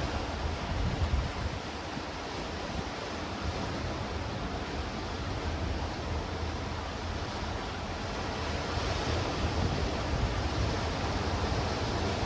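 Sea waves surging and washing over black rocks and stones on the shore, a continuous rushing with gentle swells. Wind buffets the microphone, adding a low rumble underneath.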